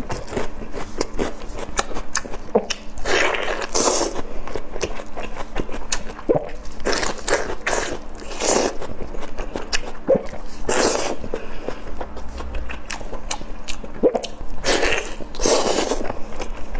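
Close-miked eating of sauce-glazed O-shaped pork sausage rings: wet biting and chewing with irregular mouth clicks, and a longer, louder wet mouth sound every few seconds.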